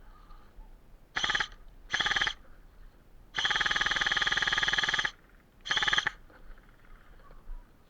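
Airsoft electric gun firing on full auto in four trigger pulls: two short bursts, a long burst of about a second and a half, then one more short burst, each a fast buzzing rattle.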